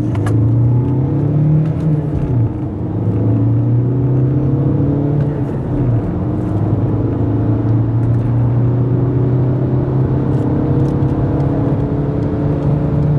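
Car engine and road noise heard from inside the cabin during hard full-throttle acceleration, with a steady engine note that dips briefly about two seconds in.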